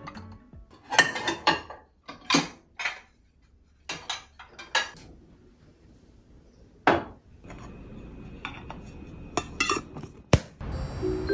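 Dishes and cutlery clinking and knocking: a series of separate light impacts with quiet gaps between, one sharp click near the end.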